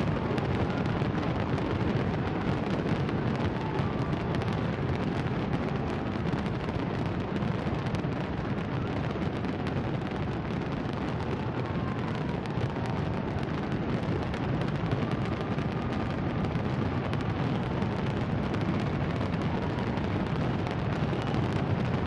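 Fireworks display going off in a dense, continuous barrage of bangs and crackles, with a few faint whistles rising and falling through it.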